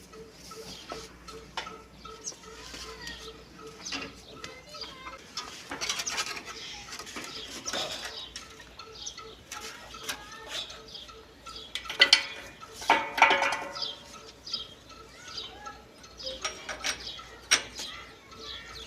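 Irregular metallic clinks and knocks of metal parts or tools being handled, with a louder cluster of clinks about twelve seconds in.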